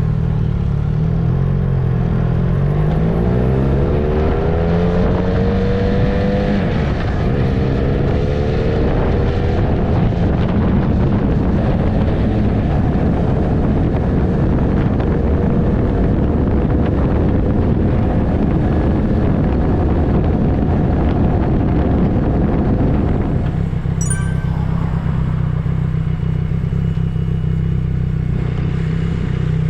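Benelli Leoncino 500 motorcycle's parallel-twin engine pulling away, its pitch rising over the first few seconds, then holding steady while riding. About 23 seconds in, the pitch drops back to a low, steady idle.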